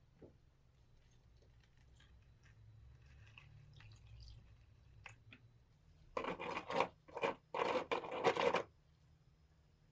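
Faint small clicks and handling noises, then, past the middle, a run of about five loud scraping or rubbing strokes lasting a couple of seconds.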